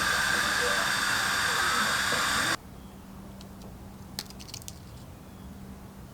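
A loud, steady hiss of a pressurized jet with a faint whistle in it, cut off suddenly about two and a half seconds in, followed by a few light clicks.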